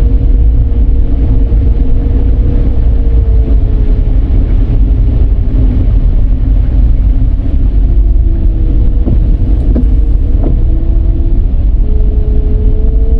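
Dodge Charger on the move: a steady low road and engine rumble, with a faint tone that sinks lower from about a third of the way in and rises again near the end.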